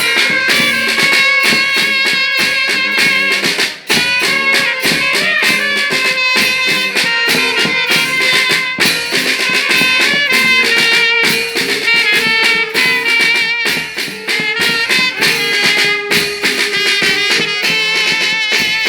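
Band music: held notes from wind instruments over a steady drum beat.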